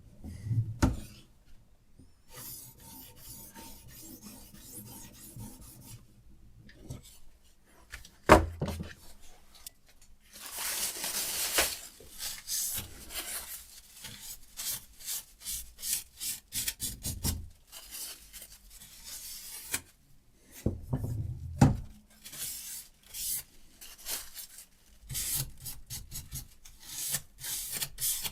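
Diamond sharpening stone of a Hapstone RS guided knife sharpener rasping along a knife blade's edge in repeated strokes, some long and many short, with a few sharp knocks.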